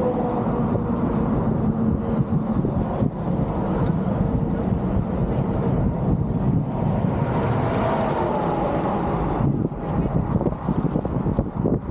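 A motor vehicle running steadily: a low engine hum under continuous rumbling road noise.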